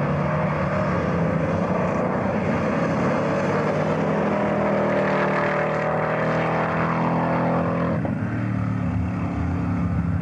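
Drag-racing car's engine running hard at full throttle, its pitch climbing as the car accelerates away. About eight seconds in the sound changes abruptly to a lower, steady engine note at low revs.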